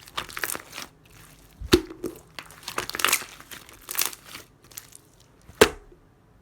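Clear jelly-textured slime being squished and stretched by hand: crackly, squelching bursts with two sharp pops, one a little under two seconds in and one near the end.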